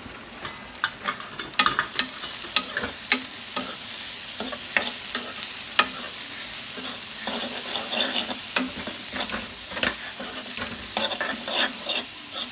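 Chopped onions with turmeric and chilli powder sizzling in hot oil in a kadhai, stirred with a spatula that clicks and scrapes against the pan. The sizzle grows louder about a second and a half in.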